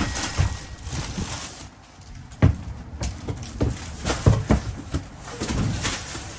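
Knocks and footsteps on a wooden trailer floor and pallets, with the plastic wrapping of a rolled mattress rustling as it is lifted and carried. Sharp thumps about two and a half and four seconds in.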